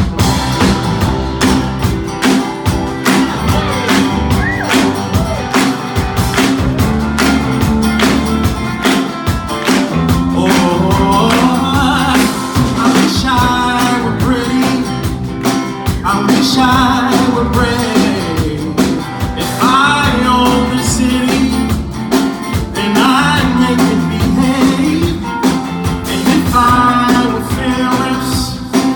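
Live band music with a steady beat, the band playing on after the sung chorus; from about ten seconds in a voice sings over it.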